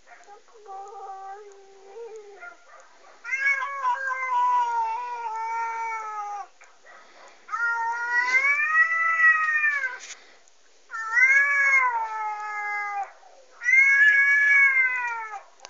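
An angry cat yowling, played back from a YouTube video: four long, drawn-out yowls that rise and fall in pitch, the first about three seconds in, after a few fainter, lower calls.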